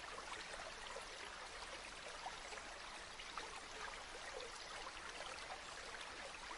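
A river flowing steadily, a gentle babbling rush with small splashes throughout.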